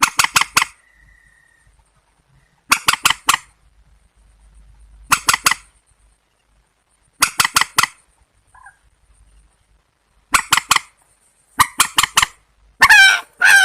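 Calls of a rail-family marsh bird: short bursts of three or four sharp, harsh notes every couple of seconds. Near the end, longer wavering, nasal calls begin.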